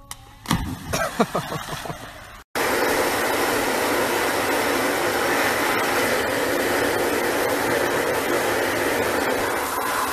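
A steady loud rushing noise from a running bathtub fills most of the clip. Before it, in the first two seconds, come a few sudden loud sounds and shouting voices.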